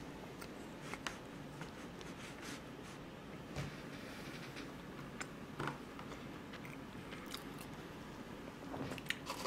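Quiet chewing of soft cake, with scattered faint clicks and taps as a plastic knife cuts a cream roll cake in its plastic tray.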